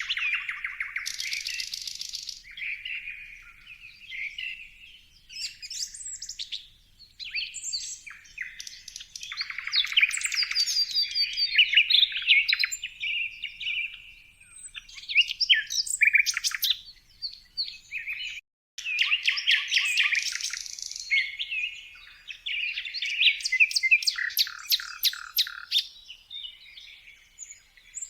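Songbirds chirping and singing: overlapping twitters, quick trills and runs of rapid repeated notes. The sound breaks off for an instant about two-thirds of the way through, then resumes.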